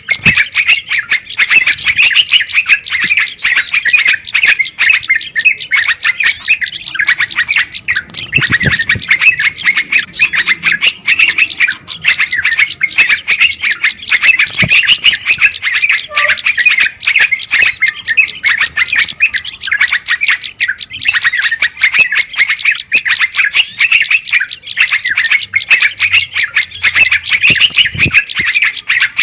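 Bird-lure recording of a noisy chorus of small songbirds: a dense, continuous chatter of quick, excited calls, used to draw wild birds in.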